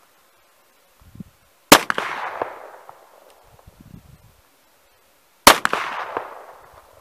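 Two revolver shots from a Swedish Nagant M1887 firing 107-year-old cartridges, a little under four seconds apart, each dying away over about a second. Both rounds go off: the century-old ammunition still works.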